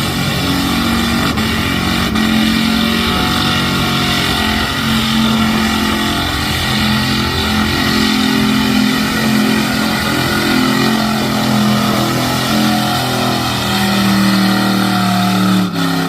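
Mud truck engine running hard at high revs, loud and sustained with the pitch wavering as the throttle is worked, then stopping abruptly near the end.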